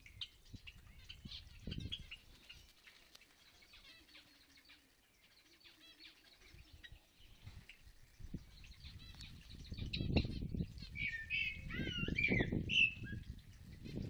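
Small aviary birds chirping and twittering, with a louder run of warbling chirps near the end. A low, uneven rumble on the microphone builds through the second half.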